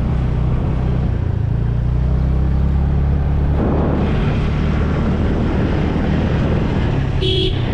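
Motorcycle engine running steadily under way, its drone shifting in pitch about three and a half seconds in, with road and wind noise over it. A brief horn beep sounds near the end.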